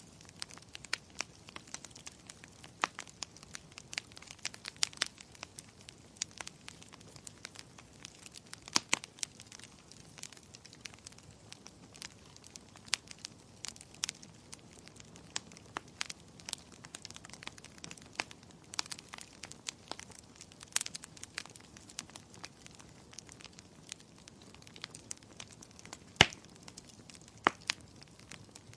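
Wood fire burning in a fireplace: a steady low hiss with irregular sharp crackles and pops, one much louder pop near the end.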